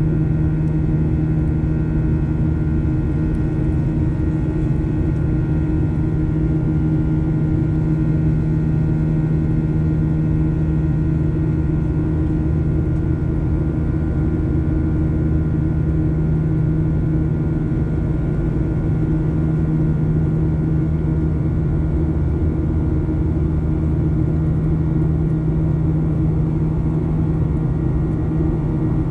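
Steady drone of a Boeing 737-900ER's CFM56-7B jet engines heard from inside the passenger cabin: an unchanging hum of several steady tones over a low rumble.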